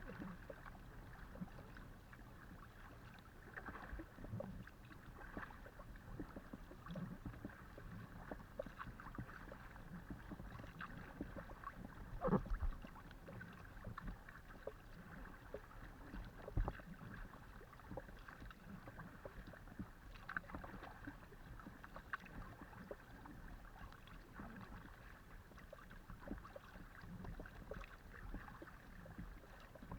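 Faint water and paddle noise of a Decathlon Itiwit X500 kayak being paddled, picked up on the kayak itself, with scattered light knocks. A louder knock comes just before the middle and another a few seconds later.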